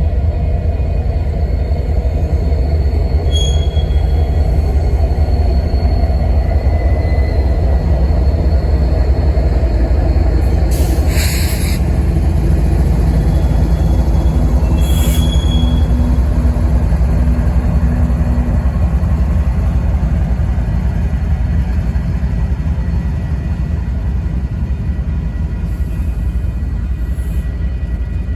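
A train passing close by: a loud, steady rumble of rail cars rolling over the track, with faint thin squeals from the wheels and two brief high screeches about 11 and 15 seconds in.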